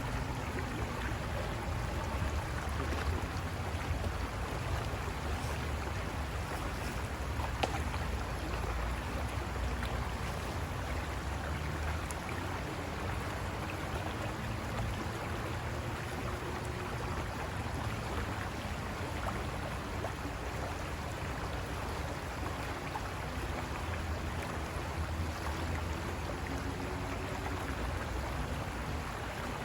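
River water rushing and splashing over rocks in a steady, unbroken flow with a deep rumble underneath. A faint, slowly wavering hum sits low beneath the water.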